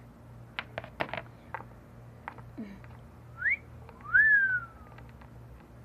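A person wolf-whistling: a short rising whistle, then a louder whistle that rises and slowly falls away. A few light clicks come before it.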